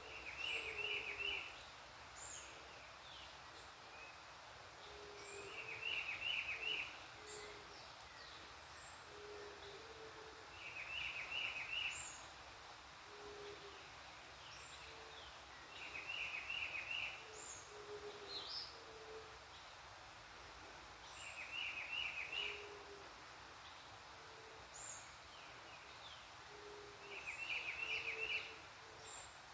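Wild birds calling in the countryside. About every five seconds a bird gives a short burst of quick, high repeated notes, over a steady series of low hooting calls and scattered short high chirps.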